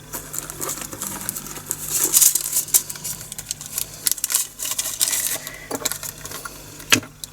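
Tiny plastic resin drills for diamond painting being poured from a bag into a storage container: a dense rattling patter of many small beads, busiest about two seconds in, with a sharp click near the end.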